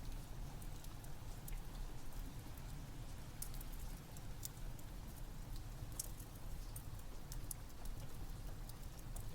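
Rain falling steadily with a wood fire crackling, its sharp scattered pops over an even rumble and hiss.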